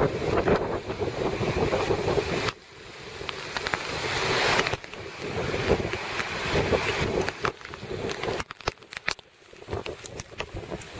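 Thunderstorm wind gusting and buffeting the microphone, with a rushing noise that swells and then breaks off abruptly a few times.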